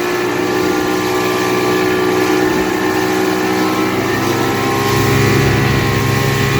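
Motorboat engine running steadily under way while towing riders, with water and wind noise; a stronger low drone sets in about four and a half seconds in.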